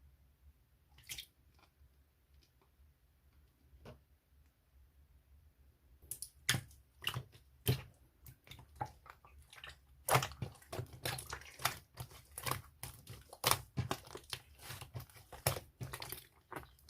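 Cream slime being squished and stretched by hand: a couple of soft taps, then from about six seconds in a dense run of sticky crackles and pops.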